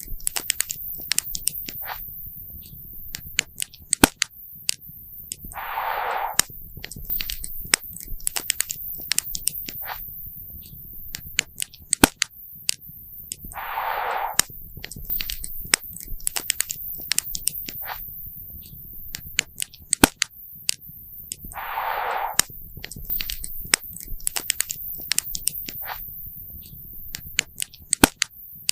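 Campfire crackling and popping: a dense run of sharp snaps, some much louder than the rest, over a low rumble of burning wood. A short hissing burst comes about every eight seconds.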